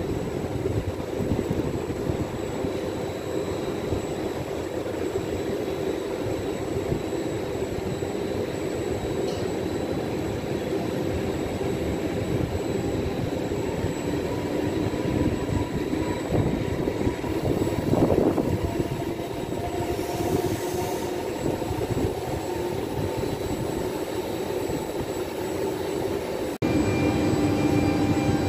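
Regional passenger train moving through the station: a steady rumble of wheels on the rails, with a faint whine in the middle. The background changes abruptly near the end.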